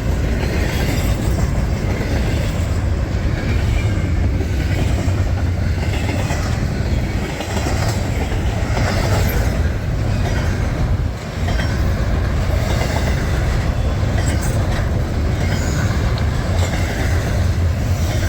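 Freight train cars rolling past close by: a loud, steady rumble of wheels on rail.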